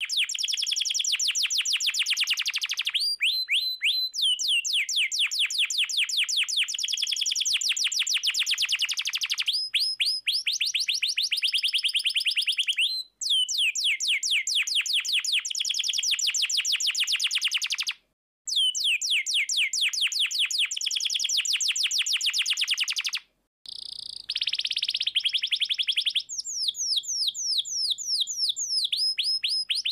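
Domestic canary singing in long rolling trills, each a fast run of the same note repeated many times a second, with the song shifting pitch from run to run. The song breaks off briefly three times.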